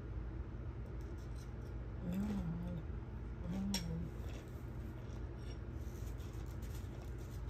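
Close-up eating sounds: chewing and light crunching, with scattered small mouth clicks and two short closed-mouth hums ("mm"), the first about two seconds in and the second about three and a half seconds in.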